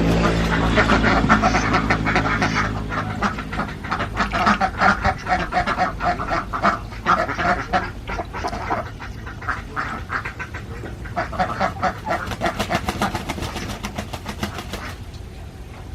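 A flock of Alabio ducks quacking continuously in many rapid, overlapping calls, thinning out near the end. A low steady hum underneath fades away over the first few seconds.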